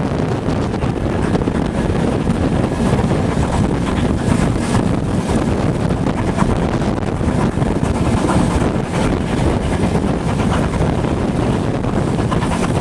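Steady rush of wind buffeting a microphone held out of the window of a moving steam-hauled train, over the low running noise of the train.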